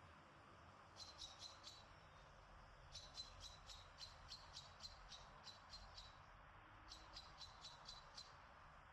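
A bird calling faintly: runs of short, high chirps, about four or five a second, in three bursts, the longest in the middle, over a soft steady hiss of background air.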